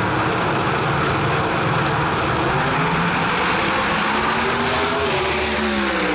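Twin-turbo drag car at full throttle making a pass down the track: a loud, steady engine and turbo noise whose pitch climbs and then drops near the end.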